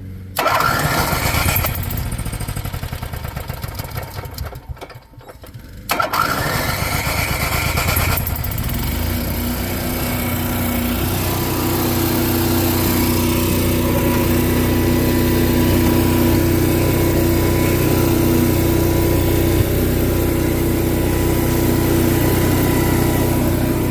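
Onan 4000 RV generator engine cranking on its starter, catching about six seconds in and settling into a steady run. It starts right up after priming, now that the pinholed fuel line to the tank has been replaced.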